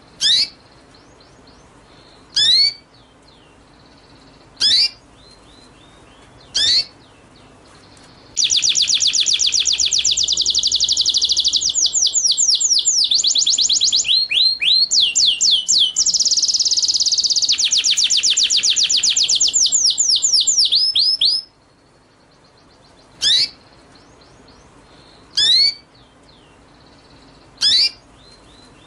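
Recorded songbird calls: single short high calls sweeping downward in pitch, about one every two seconds, broken in the middle by a long, fast trill of rapidly repeated downward sweeps lasting about thirteen seconds.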